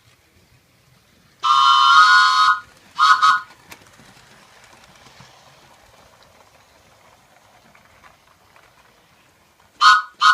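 Train whistle sounding a chord of several tones: one long blast, then two short ones, and two more short blasts near the end.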